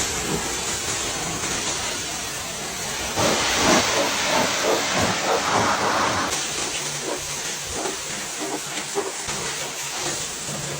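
Water spray hissing steadily, the jet of a car-wash pressure washer, with small crackling splashes from about three seconds in.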